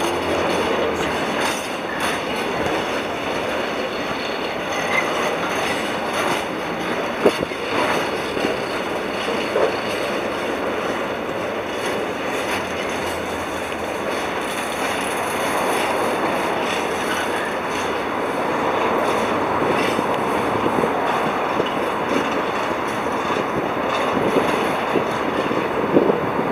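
A train running along the track: steady wheel-on-rail noise, with sharp clicks from the wheels, the strongest about seven seconds in and another near the end.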